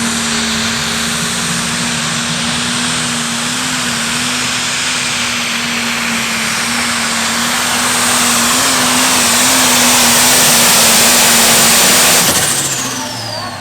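Turbocharged diesel pulling tractor running at full throttle under load down the pull track, with a high turbo whine over the engine. It gets louder, then the throttle comes off about 12 seconds in and the turbo whistle winds down in pitch.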